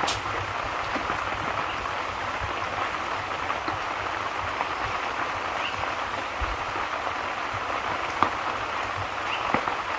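Steady rain falling, an even hiss with a few scattered sharp clicks, the most distinct one about eight seconds in.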